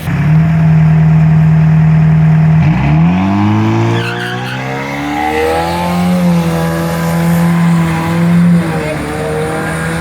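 Detroit Diesel engine of a turbocharged drag-racing tow truck running hard: a steady, loud engine note, then revs climbing steeply from about three seconds in. The engine holds a high steady note again before wavering near the end.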